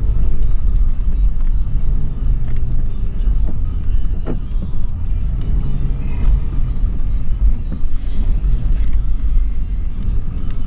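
In-cabin sound of a 2013 Toyota 4Runner SR5's 4.0-litre V6 running while the truck drives, a steady low rumble with a few brief clicks and rattles.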